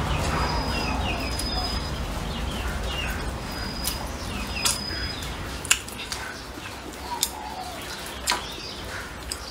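Close-up chewing and wet mouth smacks while eating braised pig's trotter, with faint short chirps in the first half and a few sharp clicks in the second.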